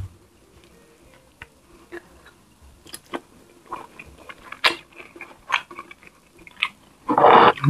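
Close-up mouth sounds of eating soft fish by hand: wet chewing, lip smacks and scattered small clicks. A much louder, breathy burst comes near the end.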